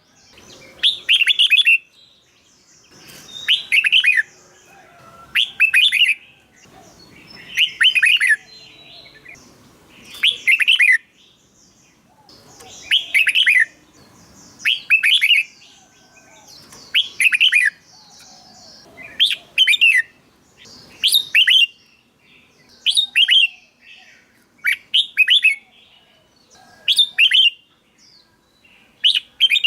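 Red-whiskered bulbul singing its short, whistled song phrase over and over, about one phrase every two seconds.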